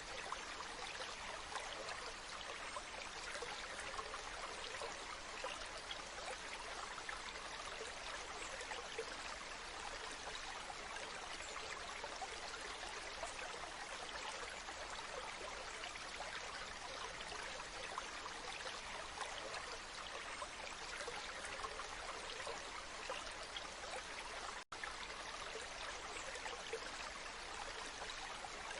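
Waterfall: a steady, even rush of falling water, with a split-second dropout to near silence a few seconds before the end.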